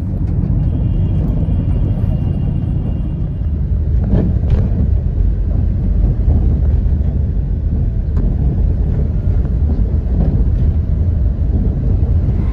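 Steady, loud low rumble of a moving road vehicle, with a couple of sharp knocks about four seconds in.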